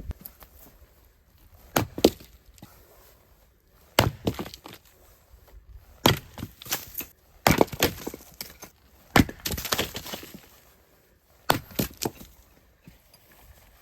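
Firewood being split: irregular sharp wooden knocks and cracks, one or two every couple of seconds, some with a brief splintering crackle after the blow.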